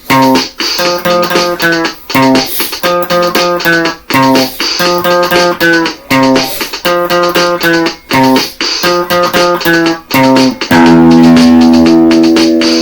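Guitar music: a picked phrase of plucked notes repeating about every two seconds, then a chord struck about ten and a half seconds in and left ringing as it slowly fades.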